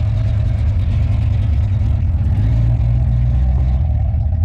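A classic car's engine running as it drives in, with a deep, steady exhaust rumble.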